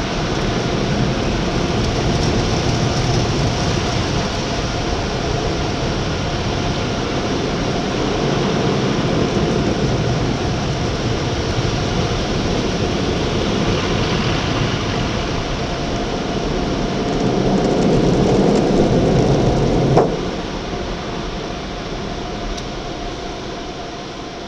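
Kaady automatic car wash running, heard from inside the car: a steady rushing noise that swells, cuts off sharply about twenty seconds in, then fades.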